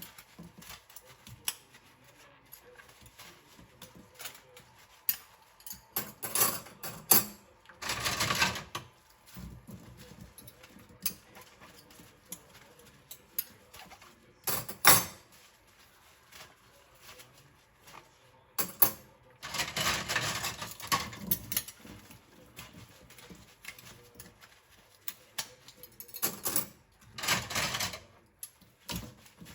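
Dishes being washed by hand in a sink: small ceramic bowls and containers clicking and knocking against each other, broken by several louder noisy stretches of one to three seconds.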